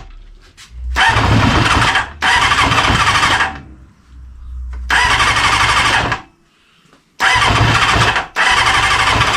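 Kawasaki GPz400R four-cylinder engine cutting out, then the starter cranking it in five bursts of about a second each with short pauses between them, with the engine not catching and running on. The restored engine will not keep running, which the owner thinks may be bad fuel.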